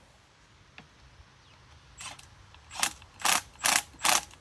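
Ratchet wrench clicking in a run of about five short strokes, roughly two a second, as bolts are wound in.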